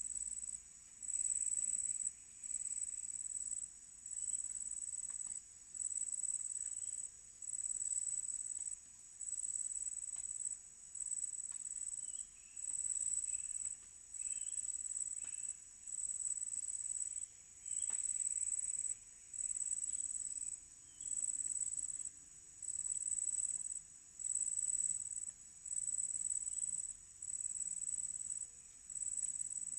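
High-pitched insect chorus, a steady trill that pulses on and off evenly about every second and a half, with faint bird chirps now and then in tropical forest.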